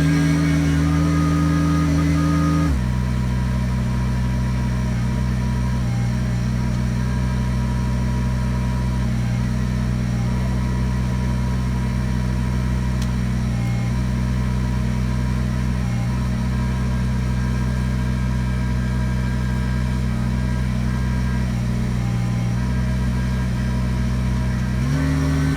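Kubota BX23s tractor's three-cylinder diesel engine running steadily. Its pitch drops abruptly about three seconds in and rises again near the end.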